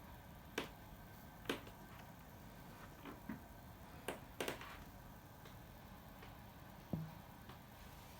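A handful of short, sharp clicks and taps, scattered irregularly, over faint steady background noise; the one near the end has a slight low thud.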